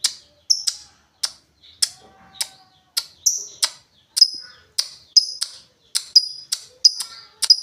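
Lovebird giving a steady run of short, sharp, high chirps, about two a second.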